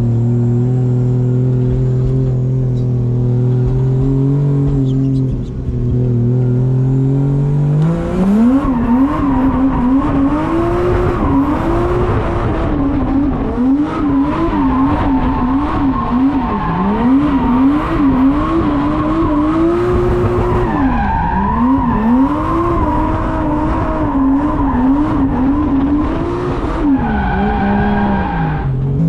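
Drift car's engine running at steady revs, then from about eight seconds in revving hard, its pitch rising and falling again and again as the throttle is worked through a drift, with tyre noise under it; the revs drop away near the end.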